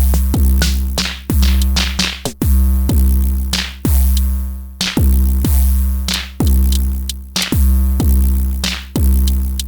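Elektron Syntakt drum machine playing a beat: a long, deep kick that drops in pitch as it starts, about once a second, with sharper noisy hits and a ringing pitched tone between the kicks.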